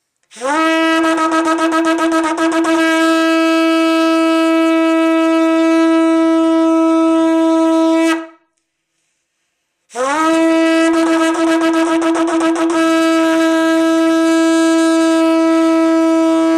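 A shofar is blown in two long blasts separated by a short pause. Each blast scoops up in pitch at the start and flutters rapidly for a couple of seconds before settling into a steady held note.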